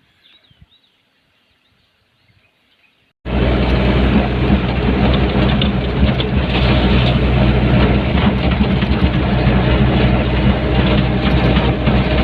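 Faint bird chirps over near quiet, then about three seconds in a Hyundai backhoe's diesel engine cuts in suddenly, running loud and steady with a low engine note.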